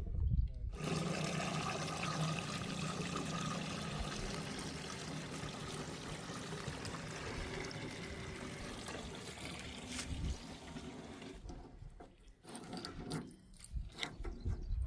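A heavy diesel engine running steadily under a loud, even rushing noise, like loose earth pouring, which starts just under a second in and breaks up into short, uneven bits after about eleven seconds.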